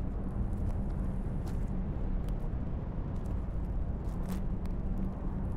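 A low, steady rumble with a faint hum underneath, and a few small crackles from a burning wooden torch.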